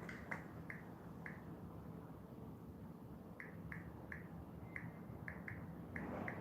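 A string of short, soft clicks at irregular intervals, about a dozen in all, over a low steady hum.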